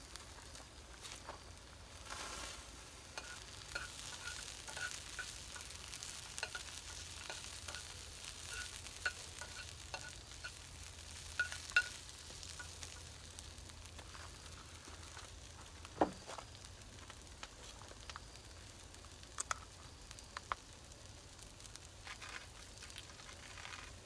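Diced onions sizzling steadily in a small frying pan over a propane burner, with light clinks and scrapes of a metal utensil stirring them through the first half. A single sharp knock comes about two-thirds of the way through.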